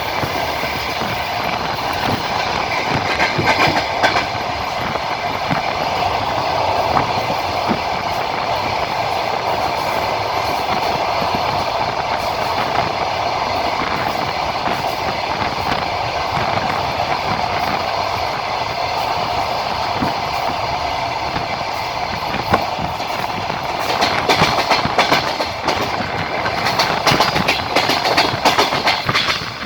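Passenger train running along the line, heard from a carriage window: a steady rumble with the wheels clicking over rail joints. Near the end the clatter turns louder and busier for a few seconds.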